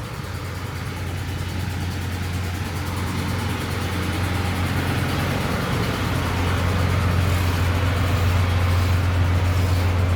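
A vehicle engine running with a steady low hum that grows gradually louder.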